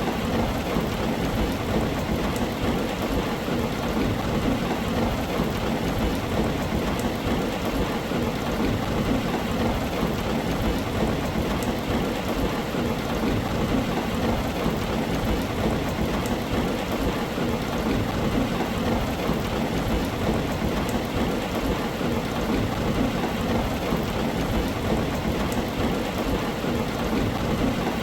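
Steady rain falling on a tin roof, an even wash with a low thunder rumble underneath and faint drop ticks on top.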